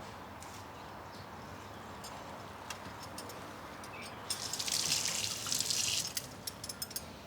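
Water sounds: a short rush of running or splashing water lasting under two seconds about four seconds in, followed by a scatter of drips.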